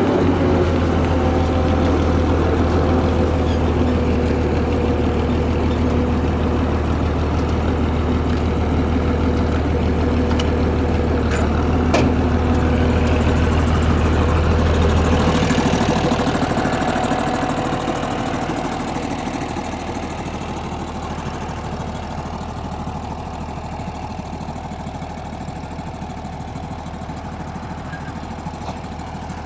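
Six-cylinder Leyland 411 diesel engine of a tractor running steadily with a strong low drone. About halfway through the drone drops away and the engine sound eases gradually to a quieter, lower running, with a single sharp click shortly before.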